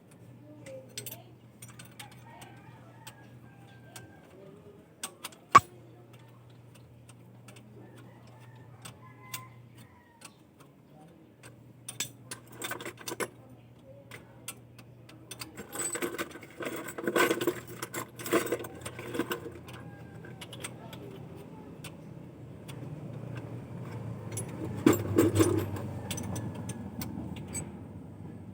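Irregular metallic clicking and clinking of hard parts being handled, with one sharp knock about five seconds in and a busier run of clinks in the middle, over a faint low hum.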